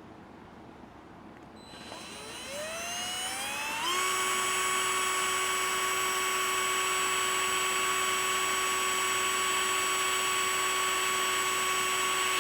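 Hand-held electric drill winding up to speed over about two seconds, running steadily at high speed while drilling holes, then winding down near the end.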